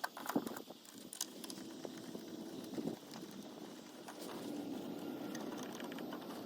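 Scattered light clicks and knocks, as of parts and tools being handled while a model aeroplane is assembled, with a faint steady hum in the second half.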